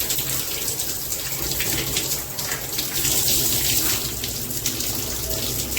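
Stainless steel shower head running, a steady spray of water splashing down into the shower.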